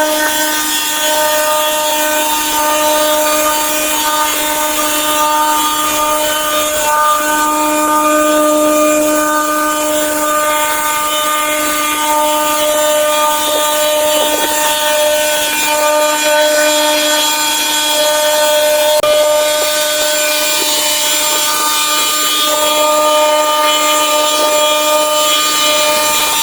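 A power tool's motor running steadily with a constant whine and a hiss over it.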